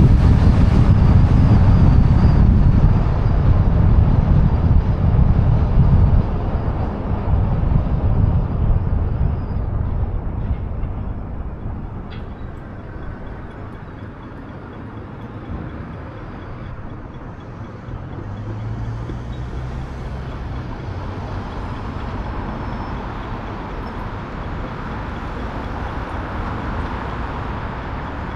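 Wind rush and road noise on a car-roof-mounted microphone while driving. The low rumble is loud at first and fades over the first half, then settles into a steadier, quieter road and traffic noise.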